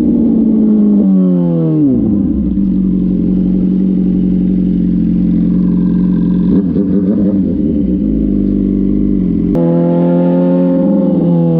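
Motorcycle engine at high revs: the pitch drops over the first two seconds, holds steady for several seconds, then jumps abruptly higher near the end.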